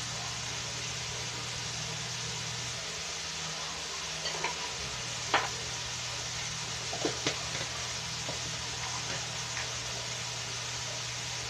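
Ground meat, hot dog and diced vegetables frying in a pan with a steady sizzle, over a low steady hum. A few light clicks and knocks between about four and seven seconds in, the loudest about five seconds in.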